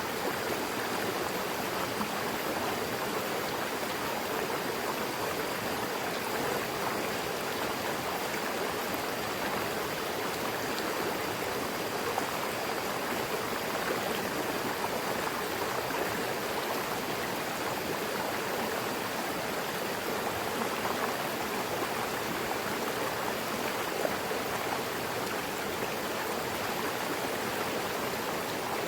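Mountain river flowing: a steady rushing of water over rocks, unchanging throughout.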